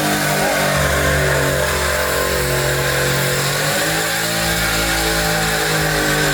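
Truck engine running hard at high revs during a burnout. Its pitch dips once a little past the middle and then climbs back up.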